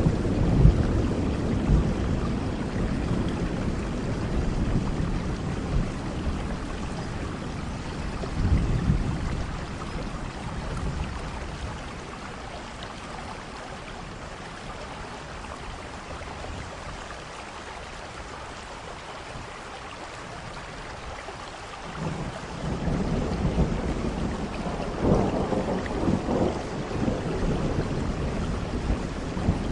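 Steady rain with rolling thunder: a rumble dies away over the first few seconds and swells briefly again about nine seconds in. After a quieter lull of rain, a new roll of thunder builds about 22 seconds in.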